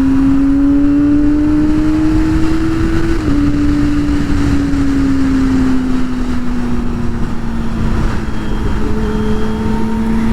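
Kawasaki ZX-25R's 250 cc inline-four, through a Yoshimura R77 full exhaust, running at steady high revs while riding, over a rush of wind noise. The engine note climbs slightly, dips briefly about three seconds in, then slowly eases lower as the throttle is held back.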